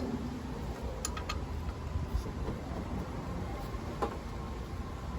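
A few faint, short metal clicks from hand tools working on the engine bay, about a second in and again near four seconds, over a steady low rumble.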